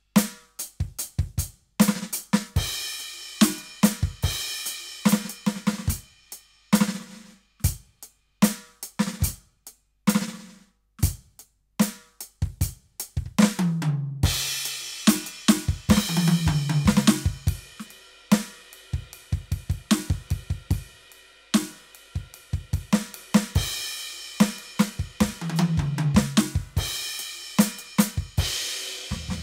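Roland TD-17KVX electronic drum kit played through its sound module: a groove of kick, snare, hi-hat and cymbals, broken a few times by fills running down the toms.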